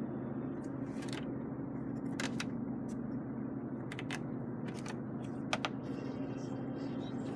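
Dashboard buttons and switches clicking several times at irregular intervals over a steady low hum in the car's cabin.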